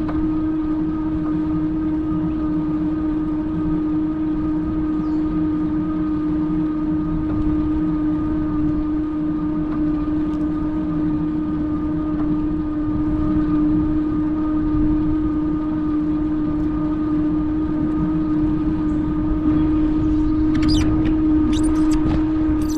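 Electric Bike Company Model R fat-tire e-bike riding at a steady speed: an even, unchanging whine over a low rumble of wind and tyres. A few sharp ticks come near the end.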